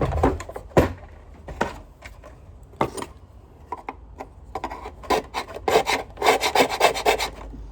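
Scraping on the metal parts of a Sanitaire vacuum, done by hand to clear rust and grime. A few separate strokes come first, then about halfway in a quick run of back-and-forth rasping strokes.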